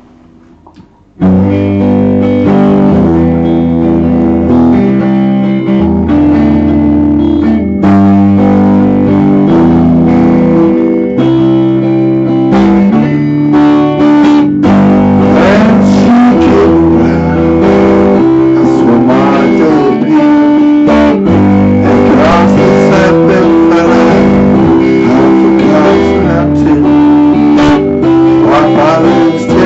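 Loud guitar music that begins about a second in, with a bass line under held chords and a melody line that bends in pitch.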